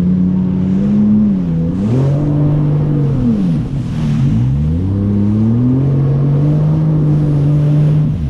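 Jet ski engine running under way, its pitch dropping and climbing back twice in the first few seconds as the throttle is eased and reopened, then holding steady.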